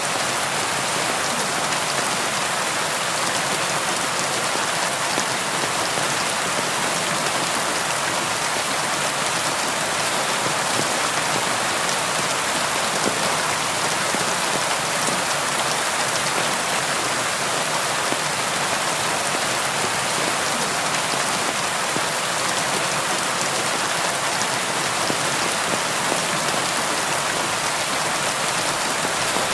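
Steady rain falling on a window, an even hiss of drops with no let-up.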